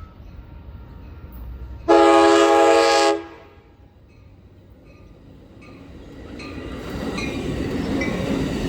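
A train's air horn sounds one blast of just over a second, a chord of several notes. A few seconds later the rumble of an approaching train builds steadily louder.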